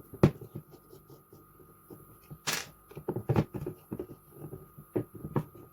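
Irregular small clicks and knocks of carburettor parts and hand tools being handled and set down on a workbench, with a sharp click just after the start and a brief scraping rustle about halfway through.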